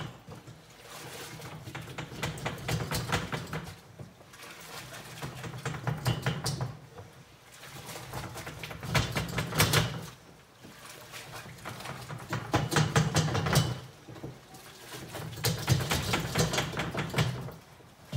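Self-leveling mortar churning and scraping inside the plastic drum of a hand-rocked Steele Mixer as it is tipped back and forth. It comes in gritty, rattling swells about every three seconds, one per tip of the drum, while the powder is mixed into the water.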